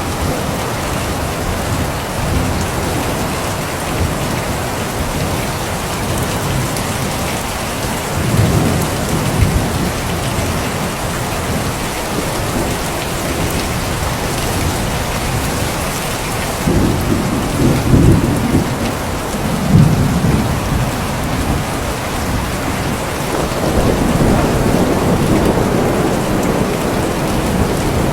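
Steady heavy rain with rolls of thunder. Deep rumbles swell up about eight seconds in, again in a longer roll in the middle, and once more near the end.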